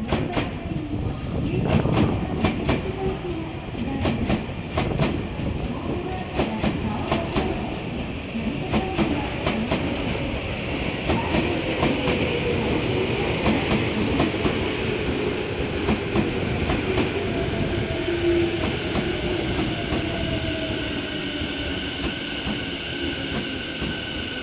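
Electric commuter train, car 51076, pulling away: its wheels clack over rail joints and points in quick succession at first. The clacking then gives way to a smoother running noise with a steady whine from the traction motors.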